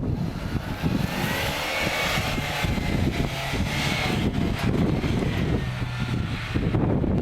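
Off-road 4x4 vehicle engine running hard, with a whine that rises and then falls in pitch in the first half and a steadier engine note after.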